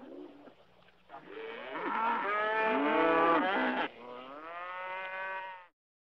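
Cattle mooing: a long, wavering moo from about a second in until nearly four seconds, then a second drawn-out moo that cuts off suddenly shortly before the end.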